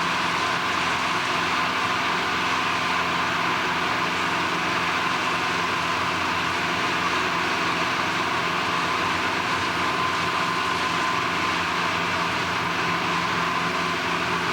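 Steady industrial machinery noise: a constant drone with several fixed hum tones and no distinct knocks or events.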